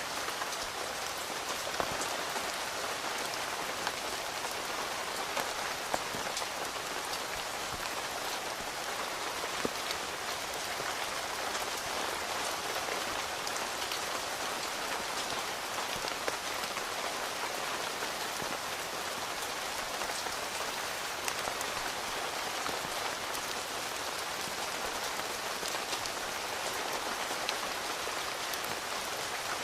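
Steady rain falling on a tent, heard from inside, with a few louder single drops standing out now and then.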